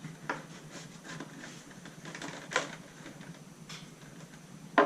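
Handling noise at a workbench: a few separate sharp clicks and taps of small parts being moved, with the loudest just before the end.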